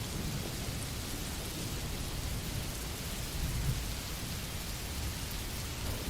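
Steady rain: an even hiss with a low rumble underneath.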